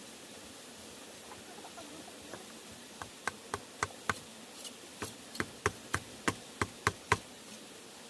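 A series of sharp knocks, about a dozen at two to three a second, starting about three seconds in and stopping shortly before the end.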